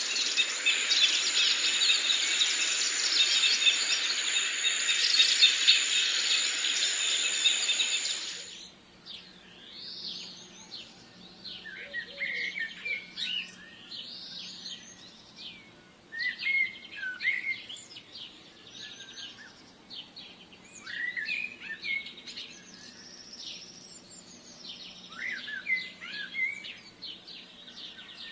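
Forest birds chirping and calling, many short separate calls with quieter gaps between them. For the first eight seconds or so a loud, dense, high buzzing chorus covers everything, then cuts off suddenly.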